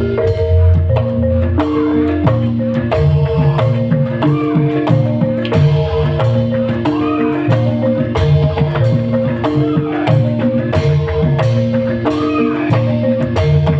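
Live band music: a repeating pattern of pitched notes over a steady low beat.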